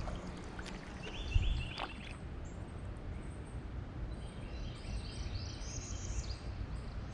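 Small birds chirping in short runs of high notes over a steady low rumble of wind and water, with one sharp knock about a second and a half in.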